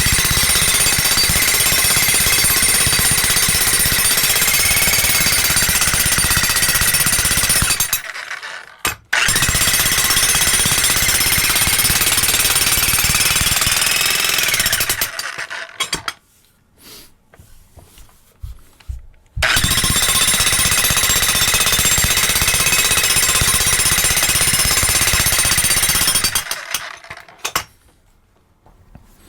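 Harbor Freight Hercules electric jackhammer fitted with a homemade welded tamper foot, hammering into dirt to tamp it. It runs in three long stretches of rapid blows with short pauses between, a steady high motor whine over the hammering.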